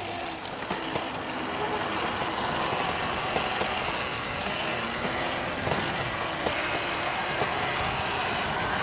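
Steady riding noise from an electric dirt bike moving along a dirt trail: wind rush and tyres on dirt, with a few faint knocks and rattles and no engine note.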